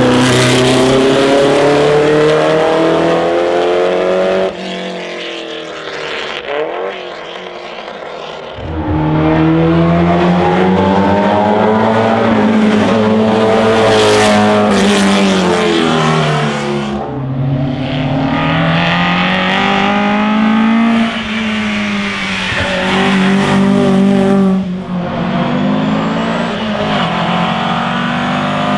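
Classic racing car engines accelerating hard, several cars in turn, the engine note climbing in pitch and dropping back at each gear change. A quieter, more distant car is heard for a few seconds around five to eight seconds in.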